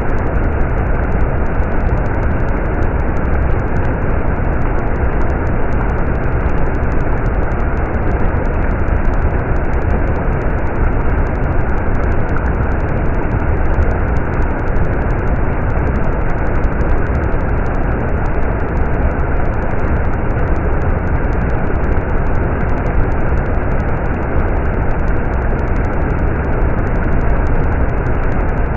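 Stream water running steadily, a continuous rushing heavy in the low end that does not change.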